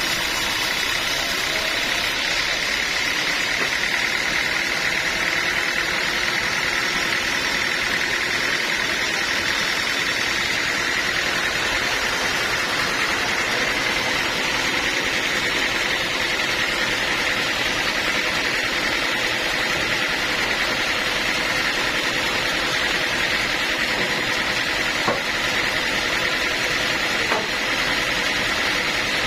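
Sawmill machinery running steadily without let-up, with two faint knocks near the end.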